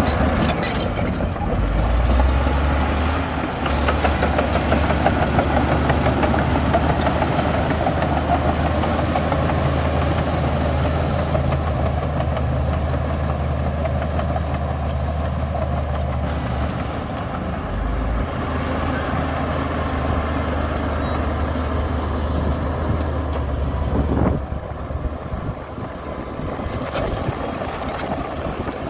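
Komatsu D60P bulldozer's diesel engine running with a steady low drone, easing off about 24 seconds in.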